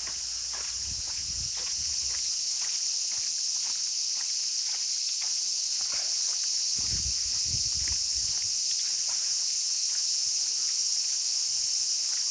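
Dense, steady chorus of summer insects, a high shrill hiss with no break, with faint ticks and taps of walking underneath.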